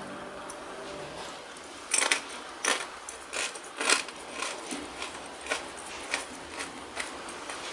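A tortilla chip dipped in guacamole being bitten and chewed: crisp crunches starting about two seconds in, about two a second, growing fainter toward the end.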